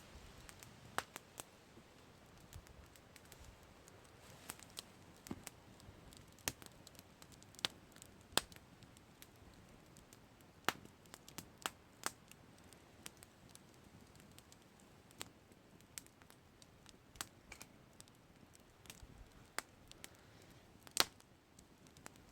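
Campfire crackling: quiet, irregular pops and snaps of burning wood over a faint steady hiss, with one louder pop near the end.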